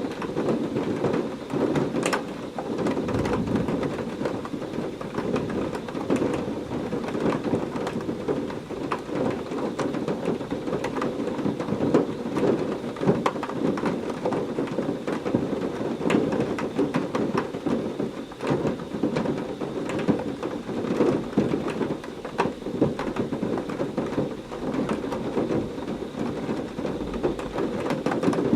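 Heavy rain falling steadily, a dense hiss with many sharp drop ticks, with low rumbles of thunder beneath it.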